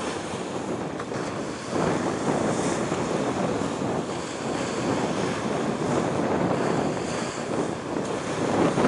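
Wind buffeting the microphone: a steady, uneven rush that gets a little louder about two seconds in.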